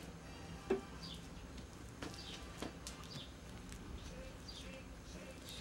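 Faint, short high chirps of a small bird, each falling in pitch, about one a second. A single sharp tap comes under a second in, with a couple of softer ticks later.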